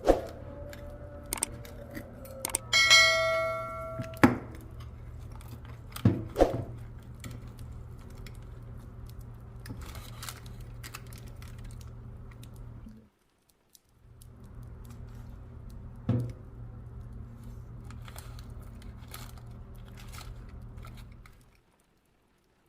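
Clinks and knocks of metal kitchenware over a steady low hum, with one ringing metallic clink about three seconds in; the hum breaks off briefly about halfway and stops shortly before the end.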